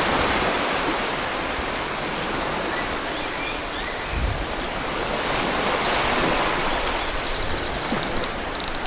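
Rushing water: a steady, even noise that slowly swells and eases.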